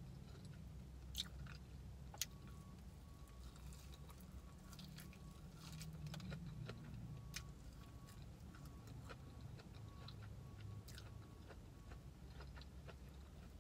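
A person chewing food close to the microphone: soft, scattered wet mouth clicks and smacks over a low steady hum.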